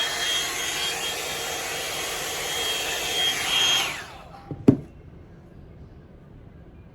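Drybar Double Shot blow-dryer brush running with a steady rush of air and a thin whine, then switched off about four seconds in, its whine dropping as it winds down. A sharp click follows just after.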